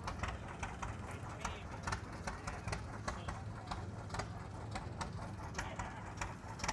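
An engine running with a steady low hum, overlaid by sharp, irregular clicks a few times a second.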